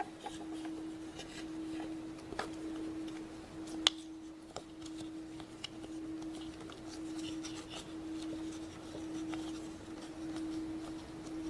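Light handling of Play-Doh and a plastic popsicle mold and tools: scattered faint clicks and taps, one sharper click about four seconds in, over a steady low hum.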